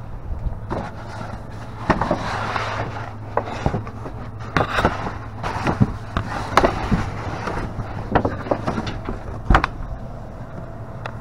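Items being rummaged through and handled in a dumpster: irregular knocks and clatters with rustling between them, most of them from about two seconds in until near the end, over a steady low hum.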